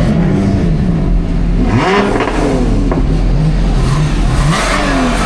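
A car engine revving: its pitch climbs and falls about two seconds in and again near the end, over a steady low running note.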